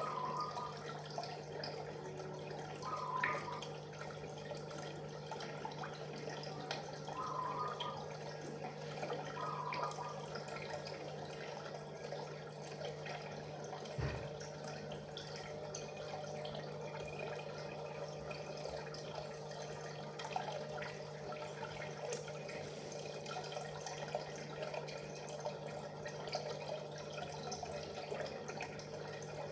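Water trickling and dripping over a steady low hum, with a single knock about halfway through.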